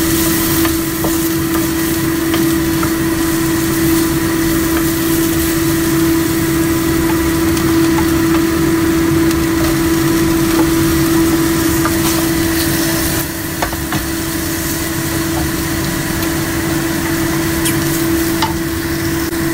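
Garlic, ginger and onion sizzling in oil in a nonstick frying pan, stirred and scraped now and then with a wooden spatula, over a steady mechanical hum.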